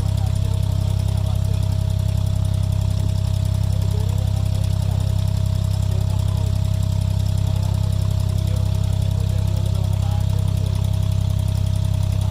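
Boat engine running steadily: a low, even drone with a thin steady whine above it.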